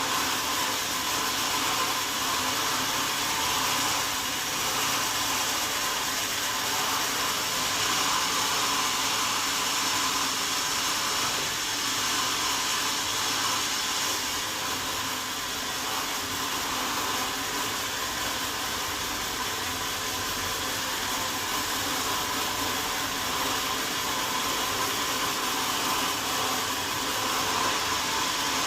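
Sawmill saw running steadily with a constant whine over a noisy hiss, unchanged in level throughout.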